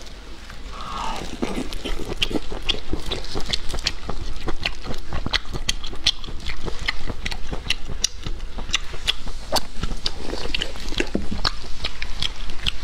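Close-miked chewing of braised abalone: wet smacking with many sharp, irregular clicks from the mouth and the soft meat.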